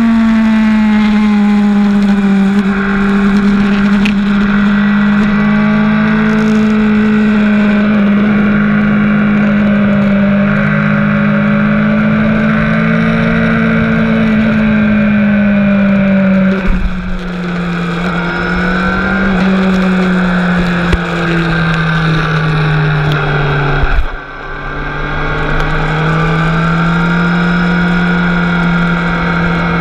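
Honda CB650F inline-four engine running hard under way, a steady high drone whose pitch drifts gently up and down. Past the middle the pitch drops and falls further, then about four-fifths through it dips sharply for a moment before picking up again.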